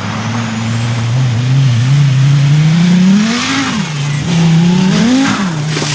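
Group N rally car's engine accelerating hard through the gears. The revs climb steadily, fall sharply at a gear change about three and a half seconds in, climb again and fall at a second change about five seconds in, then hold steady.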